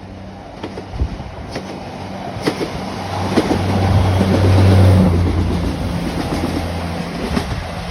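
Diesel passenger train passing close by: a low engine drone that swells to its loudest about five seconds in and then eases, with scattered knocks of wheels over the rails.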